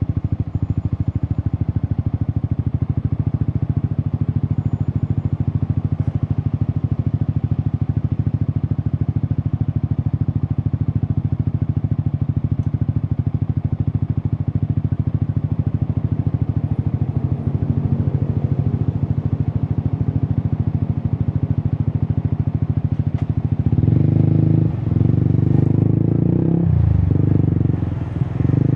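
Single-cylinder engine of a Yamaha XSR 155 running through an Akrapovic exhaust: a steady, even exhaust note for most of the stretch. Near the end it gets clearly louder and fuller, with a few brief dips in the sound.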